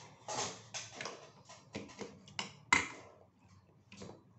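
Close-up mouth sounds of a man chewing a mouthful of rice and sardines: a run of irregular short smacks, the loudest a little past the middle.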